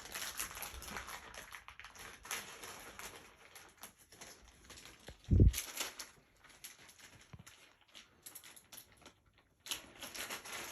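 Light clicks and rustling from hands handling ceiling-fan wiring and wire nuts, with one dull thump about five seconds in.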